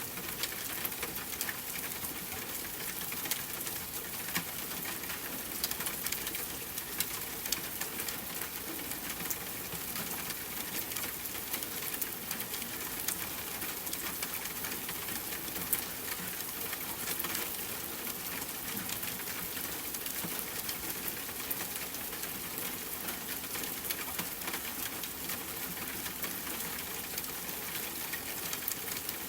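Steady rain hiss with a campfire crackling through it: many small, sharp pops and ticks scattered over an even wash of falling rain.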